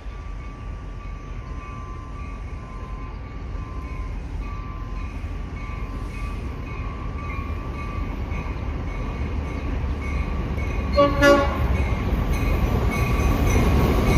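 Long Island Rail Road train approaching, its rumble growing steadily louder, with a short horn blast about eleven seconds in.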